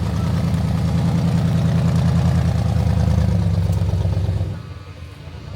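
Off-road Jeep engine running steadily at a low, even pitch, then easing off and dropping in level about four and a half seconds in.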